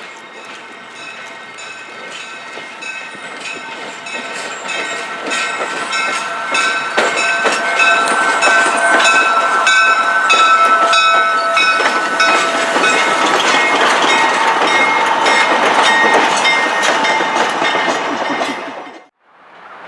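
A train passing close by, getting louder as it approaches, its wheels clicking rhythmically over rail joints, with steady high-pitched ringing tones over the first part. The sound cuts off abruptly near the end.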